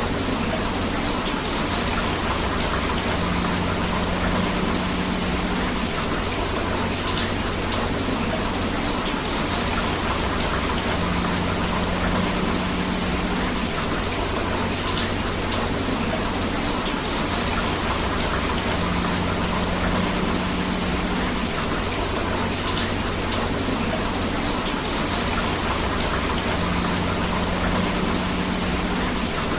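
Steady rain falling with flowing river water, an even hiss and rush throughout. A low hum comes and goes about every eight seconds.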